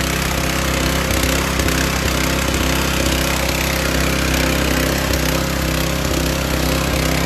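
Portable engine-driven dewatering pump running steadily after priming, pumping water out of a flooded seaplane float compartment.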